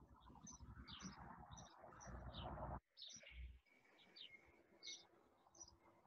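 Faint small birds chirping: short high chirps about twice a second, with a soft rustling noise during the first three seconds.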